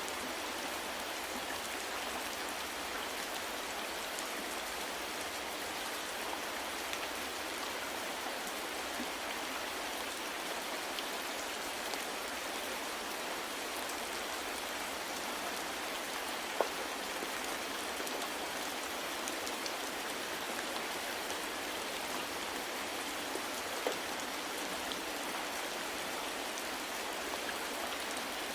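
Steady soft rain falling, an even hiss with scattered individual drops ticking, two slightly louder drops about two-thirds of the way through.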